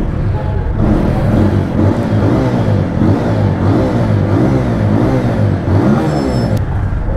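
TVS Apache RTR 200 4V's single-cylinder engine revved in repeated quick throttle blips, about three every two seconds, each rising and falling in pitch. It picks up cleanly without a stumble, which the mechanic takes to rule out a faulty thermal sensor behind its low idle RPM.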